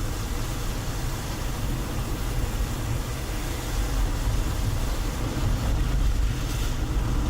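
A car driving, heard from inside it: a steady low rumble of engine and road noise.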